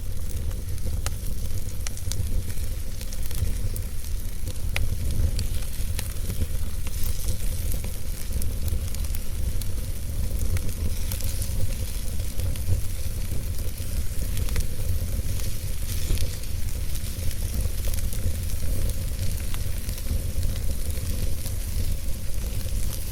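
Campfire burning: wood crackling with scattered sharp pops over a steady hiss and a low rumble.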